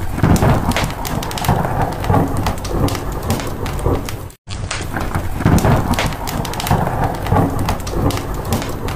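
Steady rain with low rumbling thunder and dense crackling, cut by a brief silent gap about four seconds in.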